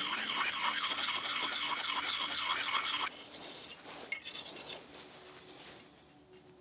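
Rapid rhythmic rasping of a hand tool working wood, several strokes a second, which stops abruptly about three seconds in. Then it is much quieter, with a few faint clicks.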